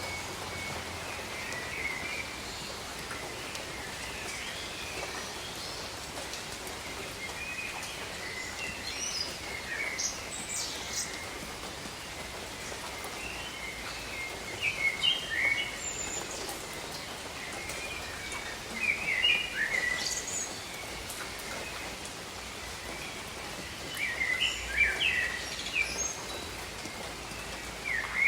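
Steady rainfall over rainforest foliage, with birds chirping in short bursts of calls that come and go, loudest in several spells through the clip.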